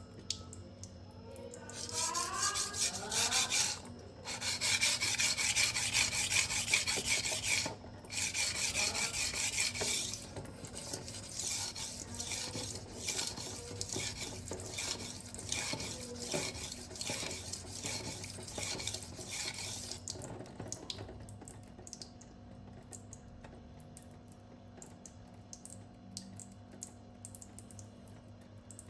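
Steel kitchen-knife blade being stroked across a Venev diamond sharpening stone, making a hissing, grating scrape. There are long loud strokes for the first ten seconds, with two brief pauses. Then come quicker, lighter repeated strokes, which fade out after about twenty seconds.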